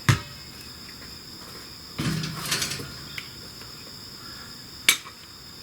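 Crickets trilling steadily in the background. Over them come a sharp click at the start, a short clatter about two seconds in, and another sharp click near the end, from small parts being handled.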